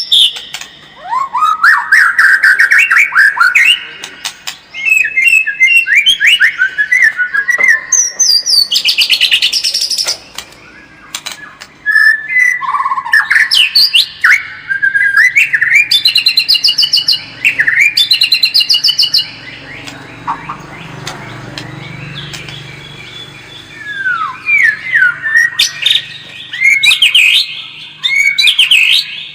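White-rumped shama singing a loud, varied song of rapid whistled sweeps, trills and chattering phrases, broken by a few short pauses.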